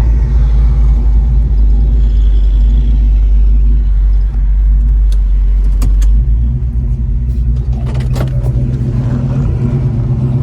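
The 1970 Chevelle SS 396's big-block V8 running under way, a deep steady rumble whose tone shifts about six seconds in. A few sharp clicks come around the middle and near the end.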